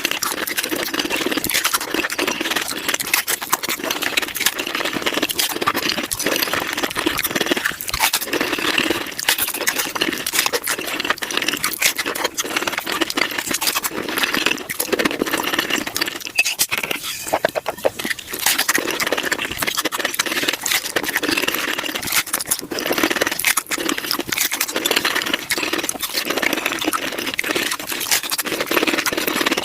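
Close-miked chewing and crunching of tacos, sped up to five times normal speed, so the crunches and mouth sounds run together into a dense, rapid crackle.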